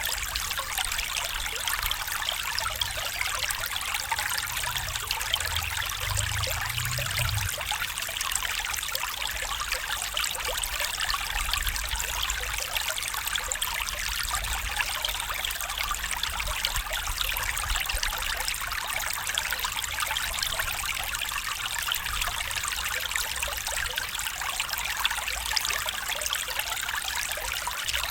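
Stream water trickling and flowing steadily, with a faint low rumble between about four and seven seconds in.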